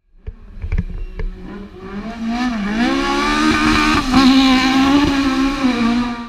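Rally car engine revving hard. A few sharp cracks come first, then the pitch climbs and holds high with small wobbles before stopping abruptly near the end.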